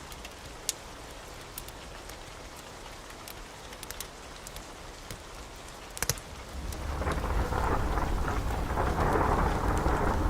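Steady rain with scattered sharp pops and ticks. About seven seconds in, a rolling thunder rumble swells up and keeps going, much louder than the rain.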